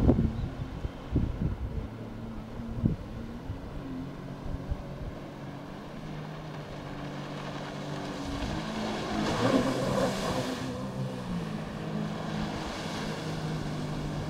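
Jet ski engine running, its pitch shifting up and down as it manoeuvres, growing louder with a rush of hiss about nine to eleven seconds in. A few sharp knocks come in the first three seconds.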